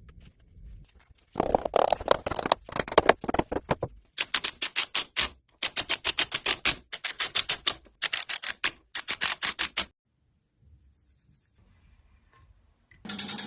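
A hand tool cuts wood in quick, sharp, repeated strokes, about five a second, in runs of a second or two with short pauses. The strokes stop about ten seconds in. Near the end a steady power-tool sound starts abruptly.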